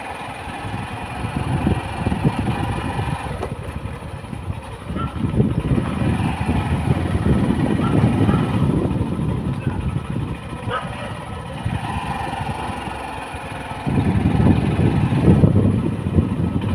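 Motorcycle running along at riding speed, with wind buffeting the microphone as a heavy, uneven rumble that gets louder near the end.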